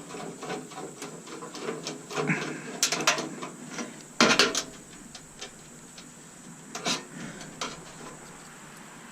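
Metal clicks, scrapes and knocks of tools and stainless steel parts being handled while a coffee maker is taken apart, with two louder knocks around three and four seconds in.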